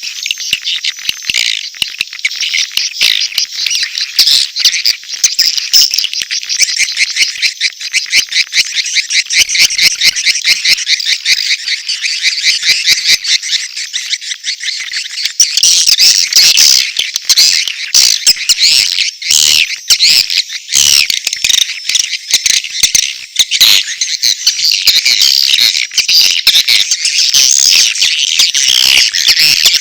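Recorded calls of edible-nest swiftlets, a mix of mating calls and chick calls: a dense, continuous chatter of rapid trills and twitters, high-pitched, growing louder and busier about halfway through. It is a lure recording of the kind played to draw swiftlets into a nesting house.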